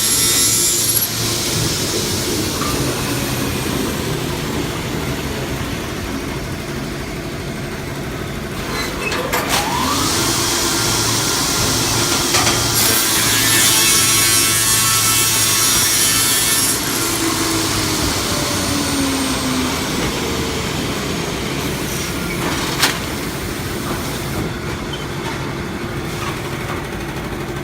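Engine-driven cutting machine running and sawing through wood, a steady low hum under constant cutting noise, with a louder, harsher cutting stretch about halfway through and a couple of sharp clicks.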